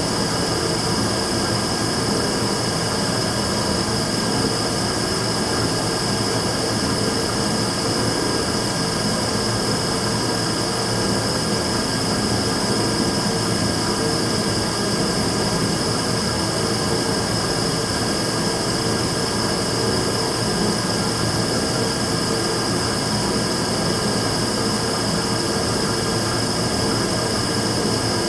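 Immersion-tube burner running steadily: an even roar with a steady high-pitched whine and a lower hum over it, the abnormal noise the owner is documenting.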